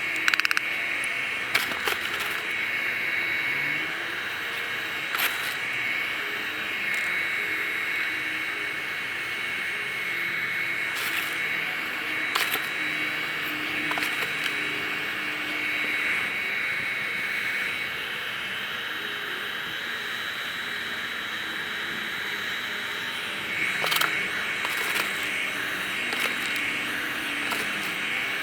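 Air blower running steadily on a briquette-fired paint-can furnace, a constant hiss with a thin high whine. A few sharp metallic clinks sound over it, one near the start and one near the end among them.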